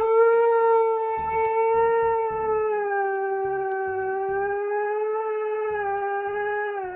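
Husky howling in one long, unbroken note lasting about seven seconds, sagging a little in pitch partway through and trailing off at the end: a dramatic protest howl.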